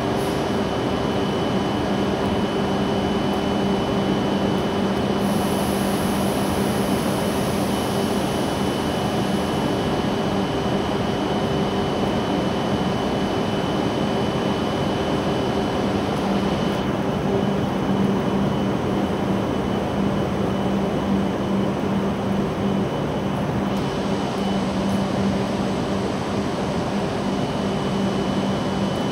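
W7-series Shinkansen train standing at the platform, its on-board equipment and air conditioning giving a steady hum with a low tone. A soft high hiss joins in about five seconds in and stops about five seconds later.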